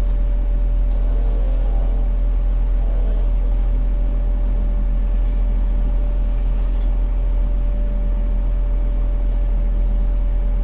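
Steady low drone of a fire engine's diesel engine running, heard from inside the cab, with a constant faint hum-like tone over it.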